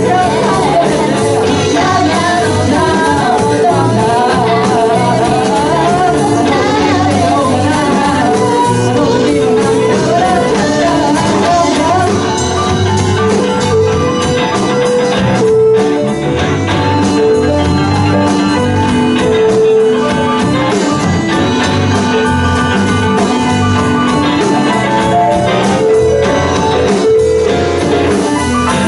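A live band plays a song with a singer's voice over it. The singing line is clearest in the first dozen seconds, after which held instrument notes carry the tune over a steady bass and drum pulse.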